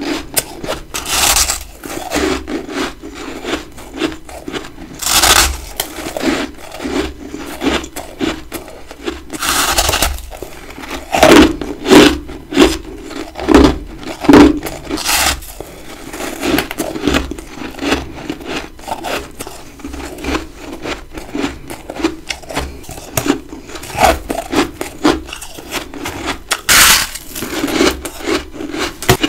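Close-miked crunching and chewing of big chunks of humidifier-grown freezer frost: a run of irregular crunchy bites, loudest about halfway through.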